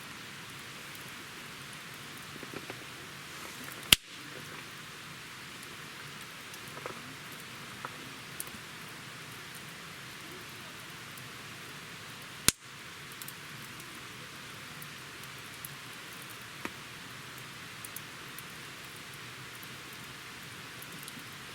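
Wood campfire burning: a steady hiss with scattered small crackles, and two sharp, loud pops, one about four seconds in and another about eight seconds later.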